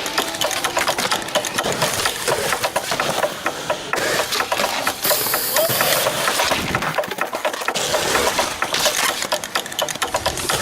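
Skateboard wheels rolling and rattling over concrete, with many sharp knocks of the board throughout.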